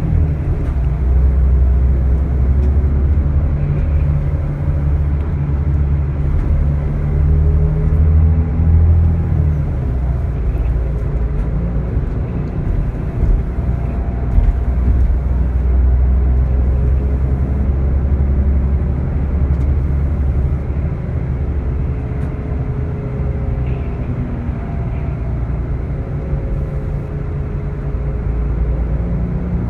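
Scania L94IB bus engine running under way: a steady low rumble that swells and eases as the engine note rises and falls.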